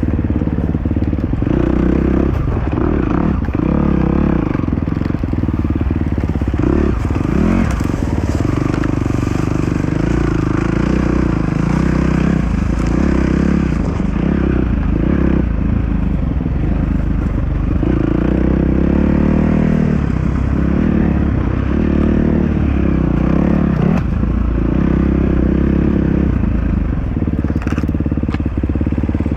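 Dirt bike engine running for the whole stretch, its revs rising and falling again and again, over rough, crackling noise.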